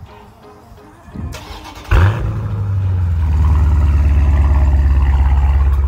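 Dodge Challenger Scat Pack's 392 (6.4-litre) HEMI V8 cranking and catching about two seconds in, with a loud flare as it fires, then settling into a steady, deep, pulsing idle through an exhaust with the mid mufflers deleted.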